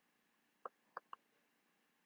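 Three quick computer mouse clicks, about two-thirds of a second in and then a close pair just after one second, over near-silent room tone.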